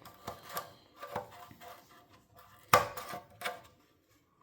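A few knocks and clinks of a hollow metal object being handled, several with a short ringing note; the loudest knock comes a little under three seconds in.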